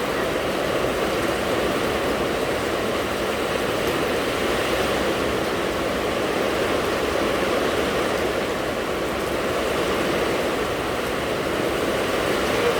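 Steady, heavy rain falling as an even, unbroken rush of noise.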